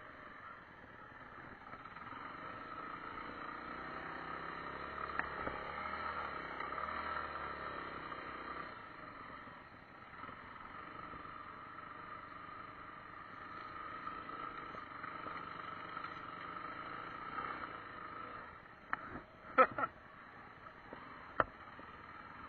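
Yamaha single-cylinder trail motorcycle engine running at low speed, a little louder from about four to eight seconds in. A few sharp knocks near the end, the loudest about twenty seconds in.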